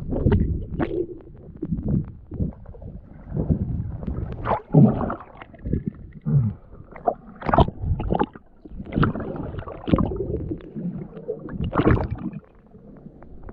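Water sloshing and gurgling around a diver in a river, with irregular splashes and knocks as he moves in the water.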